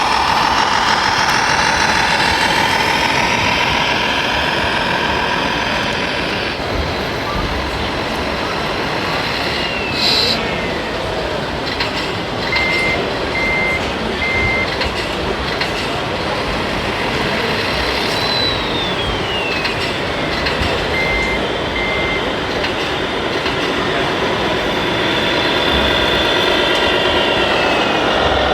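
Radio-controlled model trucks and construction machines running, with a steady mechanical drone and a pitched sound that wavers during the first few seconds. Twice a whine falls in pitch. Short high beeps sound three times and then twice later on, and there is one sharp knock about ten seconds in.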